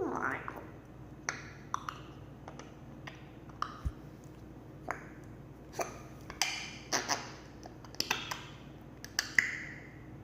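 Parrot making a series of short, irregularly spaced clicks and chirps, opening with a rising whistle and with a brief whistled note near the end.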